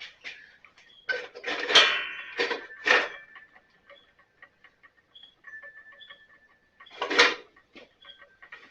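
Metal clanks and rattles from hands-on work on a riding mower: a cluster of sharp knocks with brief ringing from about one to three seconds in, another clatter about seven seconds in, and light ticks between.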